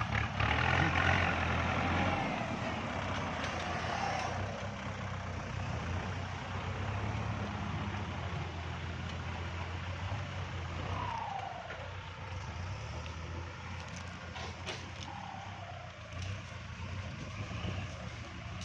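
Kubota MU4902 tractor's diesel engine running steadily under load while pulling a disc plough through overgrown ground, with a rougher scraping noise that is loudest in the first few seconds.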